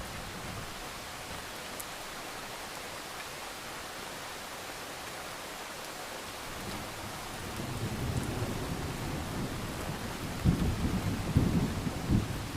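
Steady rain hissing, with thunder coming in about halfway through as a low rumble that grows, then several loud claps and peaks of rolling thunder near the end.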